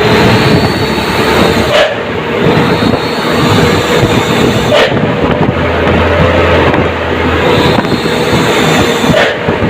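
Military truck's diesel engine running loudly under way, heard from aboard the moving truck along with rushing road and wind noise. A few brief sharp sounds stand out, about two seconds in, near five seconds and near the end.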